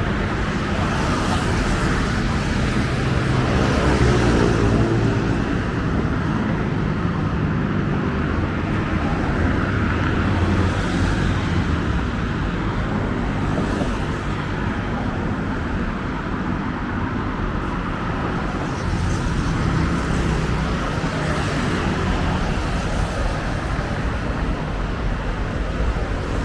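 Steady road traffic, with motor vehicles running past; one engine's pitch rises about four seconds in.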